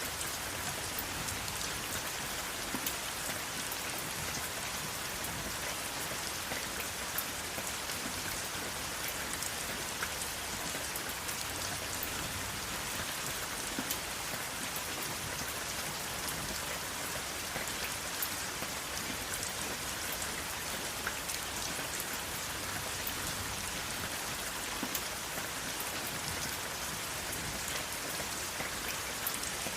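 Steady rain falling, a constant hiss with many small drops ticking on a surface, and no thunder.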